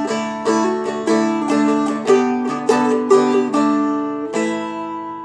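Seagull Merlin, a four-string dulcimer-style instrument, picked in a melody phrase over ringing drone strings: about a dozen strums in even rhythm, the last ringing out and fading near the end.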